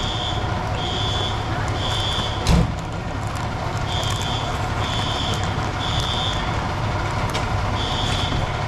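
Fire alarm beeping in the three-beep temporal pattern: three high beeps about a second apart, a pause, then again, over a steady low engine rumble. A single thump about two and a half seconds in.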